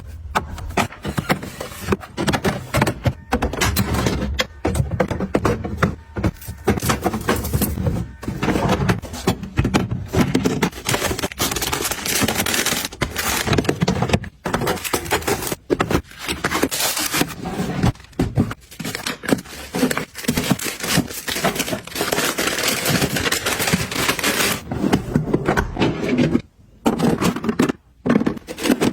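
Close handling sounds of items being restocked and organized: containers and packaging picked up, scraped and set down, with frequent clicks and taps and a few brief pauses near the end.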